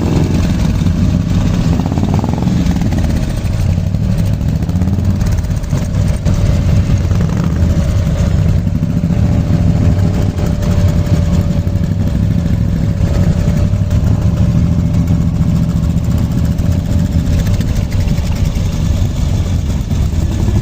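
Vehicle engine running steadily with road noise, with no clear revving or gear changes.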